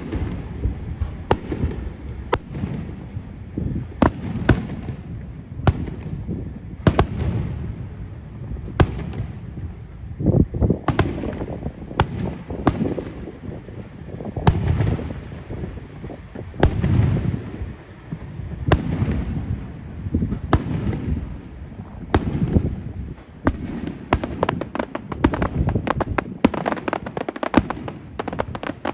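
Aerial fireworks display: sharp bangs and deep booming launches and bursts with rolling echoes between them. The reports come thicker and faster near the end, turning into rapid crackling.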